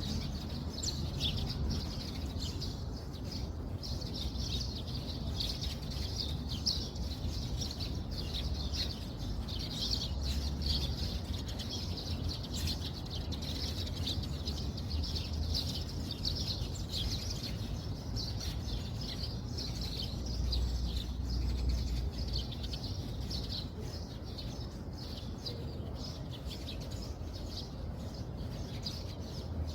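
Continuous dense chirping of many small birds, over a steady low rumble.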